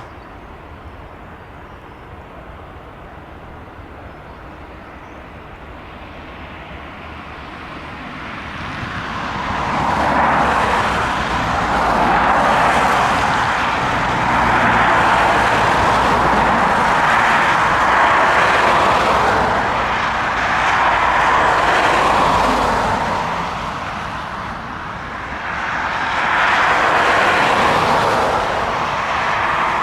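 Boeing 757 jet engines: a distant rumble builds over several seconds into a loud, steady roar that swells and eases every few seconds.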